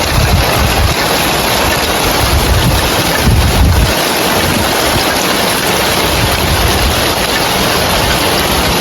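Heavy rain pattering on roof tiles as a dense, steady hiss, with gusts of wind rumbling on the microphone, strongest about three and a half seconds in.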